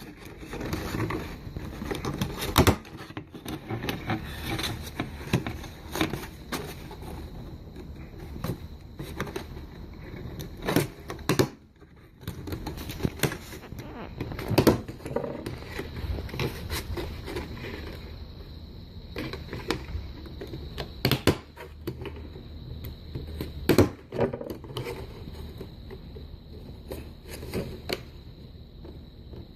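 Handheld stapler driving staples through the paper flaps of a lantern, a sharp clack about five times a few seconds apart, with paper rustling and handling between.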